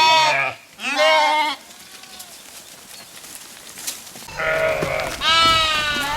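Sheep bleating: two calls in quick succession at the start, a pause of about three seconds, then two more calls near the end.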